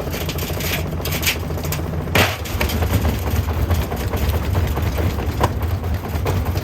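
Frigidaire front-loading washing machine in a violently unbalanced spin, the drum thudding and rattling in a continuous low rumble, with a loud crack about two seconds in and sharper knocks near the end as the machine shakes itself apart.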